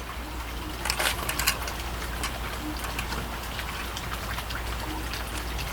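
Scattered small clicks and crackles from desoldering work on a circuit board, over a steady low hum.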